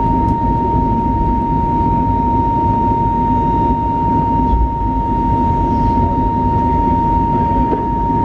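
Airbus A320neo's jet engines at high power during takeoff, heard from inside the cabin: a steady, loud rush of engine and airflow noise with a constant high whine held throughout.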